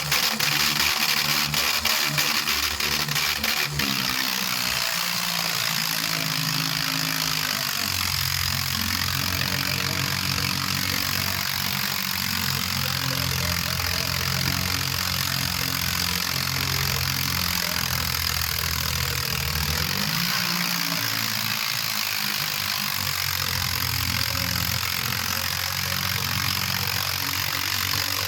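Diesel tractor engine running, its pitch shifting up and down, with a steady hiss over it. A run of sharp clicks sounds during the first few seconds.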